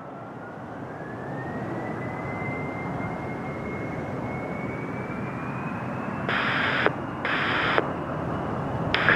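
Gulfstream G550's Rolls-Royce BR710 turbofans running up for the take-off roll, a steady jet rush with a whine rising in pitch as it grows louder. Two short bursts of radio hiss come near the end.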